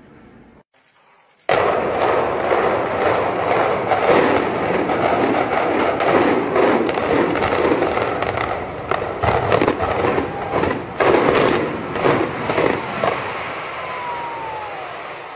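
Building demolition: a sudden loud blast about a second and a half in, then a long stretch of dense crashing noise dotted with many sharp cracks, dying away near the end.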